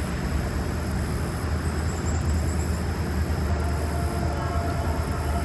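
Steady low rumble with a hiss over it, no distinct events.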